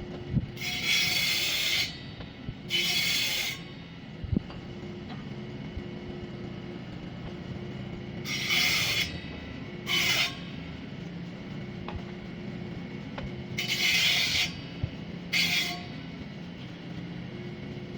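Six separate rasping strokes of a hand tool on wood, each lasting up to a second and a half, coming in loose pairs with pauses of a few seconds between them.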